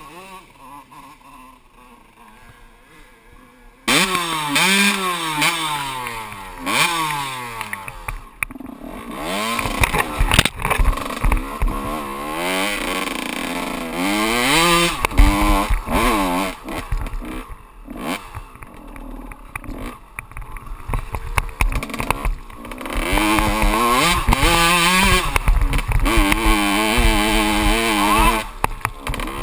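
Kawasaki KX125 two-stroke single-cylinder dirt bike engine, first running fairly quietly, then about four seconds in suddenly revving hard close up, its pitch climbing and dropping again and again through gear changes and throttle blips. Wind rumble and knocks of the bike over rough ground run under it.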